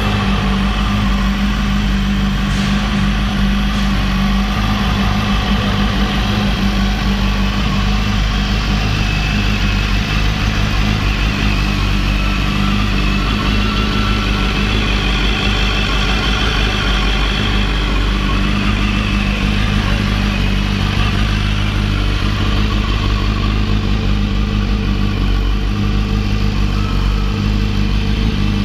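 BMW S1000RR's 999 cc inline-four engine idling steadily.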